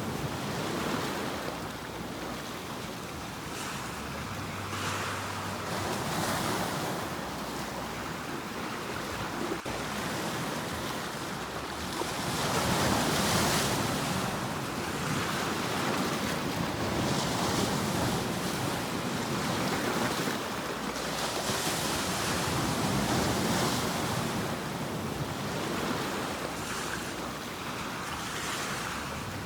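Ocean waves surging and breaking in a continuous surf, swelling and easing every few seconds, with the biggest surge about twelve seconds in.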